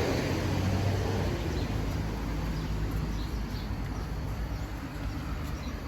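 Steady low rumble of background noise, slowly fading, with a few faint high bird chirps about halfway through and near the end.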